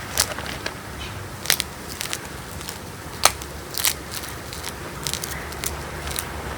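Blocks of gym chalk (magnesium carbonate) crushed between the fingers, giving irregular sharp crunches and crackles, a few loud snaps among smaller crumbling clicks.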